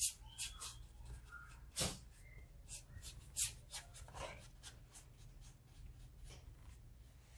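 Watercolor brush stroking and dabbing on paper: a series of faint, short scratchy brush sounds, irregularly spaced, over a low steady room hum.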